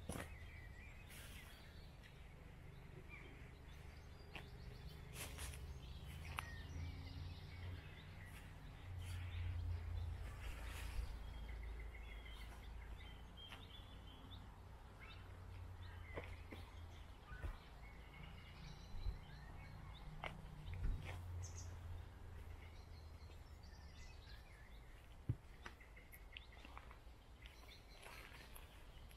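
Small birds chirping and calling now and then, over a steady low rumble, with a few short clicks scattered through the second half.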